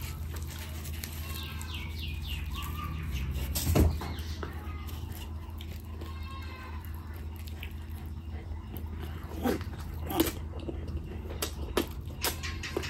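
Close-miked wet chewing and mouth noises from eating bhatura soaked in mutton curry, with squelchy smacking. One sharp smack about four seconds in is the loudest sound, and a run of short lip and finger-licking clicks follows in the second half over a steady low hum.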